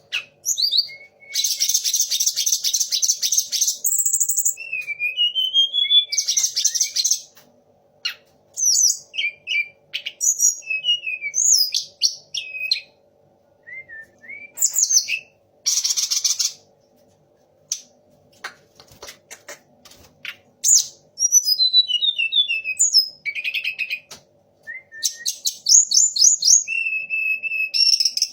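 A tledekan gunung in full song: loud, varied whistled phrases and sliding notes mixed with several fast, harsh rattling trills, in bursts separated by short pauses. It is mimicking the songs of the kacer (magpie-robin), murai (white-rumped shama) and punglor (orange-headed thrush). A faint steady hum runs underneath.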